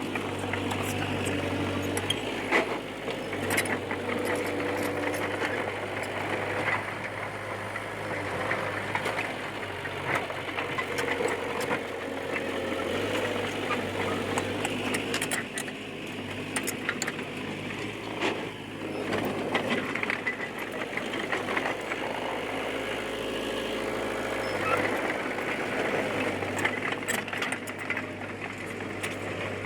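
Small crawler bulldozer, a Komatsu D20P, working: its diesel engine runs steadily, its tone shifting every few seconds as load changes, with scattered clanks and rattles from the tracks and blade.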